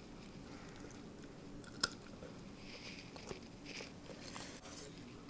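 Chewing on a chicken foot close to the microphone: soft, wet mouth and chewing sounds, with one sharp click a little under two seconds in.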